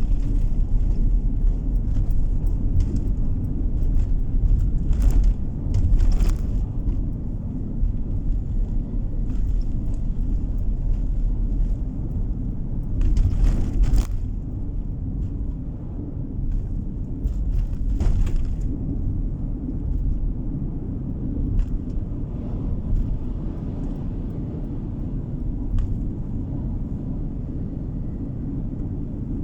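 Car driving on the road, heard from on board: a steady low rumble of tyre and engine noise, with a few brief louder hissing swells, about 5, 13 and 18 seconds in.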